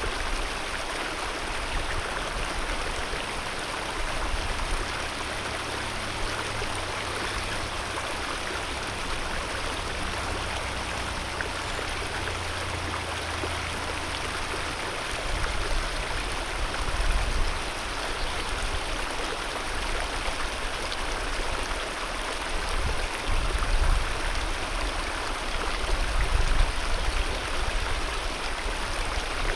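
Alpine mountain river flowing, a steady rush of water, with low rumbling swells now and then in the second half.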